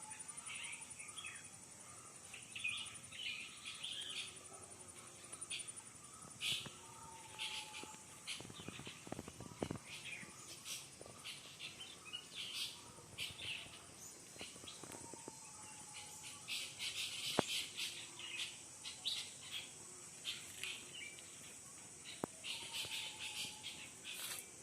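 Many small songbirds chirping and twittering in quick, irregular calls, over a steady high insect trill. A lower, short whistled note recurs every few seconds.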